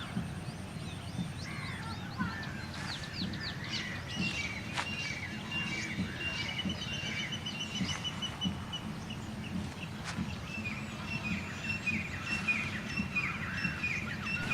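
Several songbirds chirping and singing, with short falling notes and long rapid trills, over a steady low background rumble.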